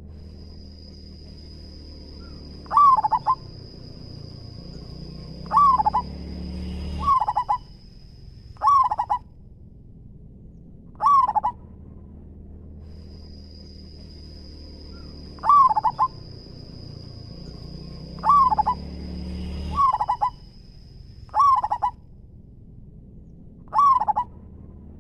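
Zebra dove (perkutut) cooing: about ten short calls, each repeated every one and a half to four seconds. A steady high-pitched tone sounds in the background for several seconds at a time, twice.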